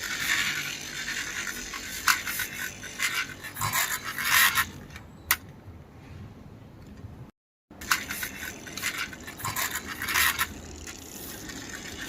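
Toy auto-rickshaw rolled along a surface, its small plastic wheels scraping and rattling in irregular bursts. The sound cuts out briefly about two-thirds of the way through.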